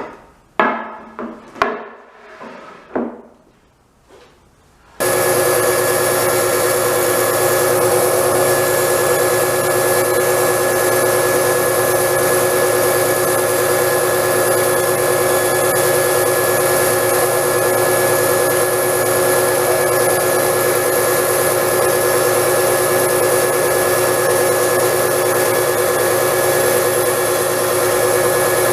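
A few sharp knocks of wood, then about five seconds in an electric power tool starts suddenly and runs steadily, a constant whine over a noisy hiss.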